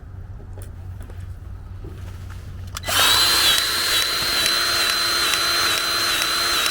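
Quiet for about three seconds, then a small electric power tool starts and runs steadily with a high whine.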